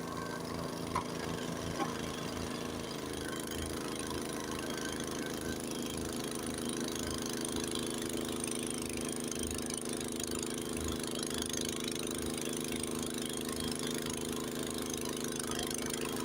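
Honda HS80 tracked two-stage snowblower running steadily, its single-cylinder engine under load with a hiss of snow being thrown over the engine note. Two short knocks about one and two seconds in.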